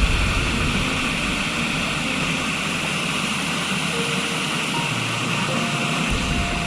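A river flowing, a steady rushing noise with a constant high hiss.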